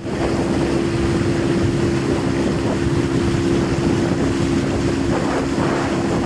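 Boat engine running steadily with a constant hum, with wind buffeting the microphone.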